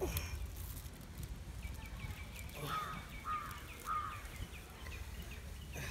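Birds calling: a quick run of short high ticking notes, about five a second, with three short falling calls about half a second apart in the middle, over a steady low rumble.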